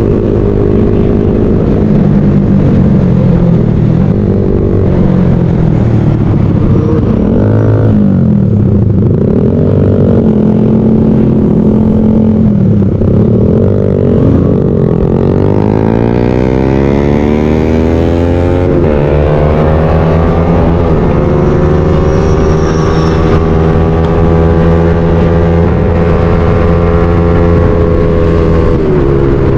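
Motorcycle engines running on the open road, their pitch rising and falling as they rev and shift, with other engine notes sweeping up and down as vehicles pass close by.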